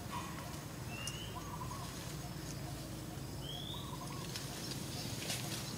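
A bird calling in the background: a short rising whistle, twice, each time close to a brief lower note, over a steady low hum.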